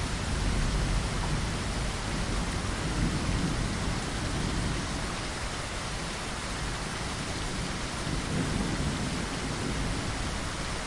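Steady heavy rain against a window, with a low rumble of thunder that swells and fades a few times.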